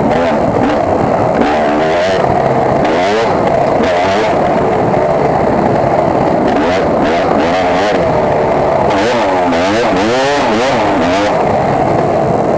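KTM EXC two-stroke dirt-bike engine running after a top-end rebuild, its revs rising and falling again and again while it is run in.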